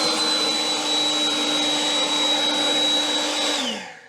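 DCK 58V brushless cordless leaf blower with a flat nozzle running at steady full speed: a rushing blast of air over a high fan whine. It winds down and fades near the end.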